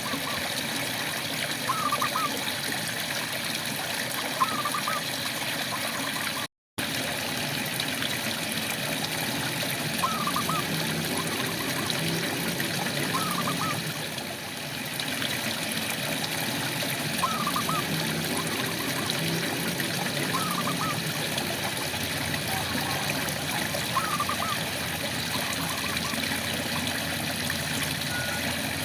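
Steady rain falling, with a frog giving short chirping calls every two to three seconds. The sound cuts out completely for a moment about six seconds in.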